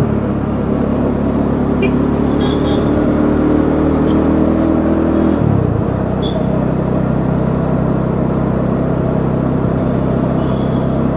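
Bajaj Dominar 400's single-cylinder engine running steadily under way, with road and wind noise. About five and a half seconds in, the engine note drops as the revs fall, then holds steady at the lower speed. A few short high chirps sound briefly in the background.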